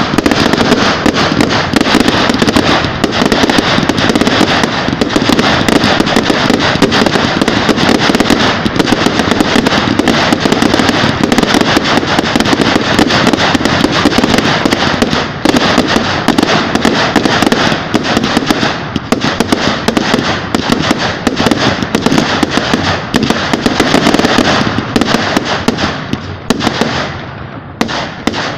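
Fireworks crackling: a loud, dense, continuous run of rapid pops and cracks that thins out and fades near the end.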